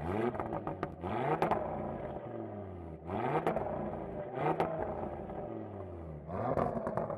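Audi RS3's turbocharged 2.5-litre five-cylinder engine revved in about five short throttle blips while stationary, the pitch rising and falling each time. Crackles and pops come from the exhaust as the revs drop.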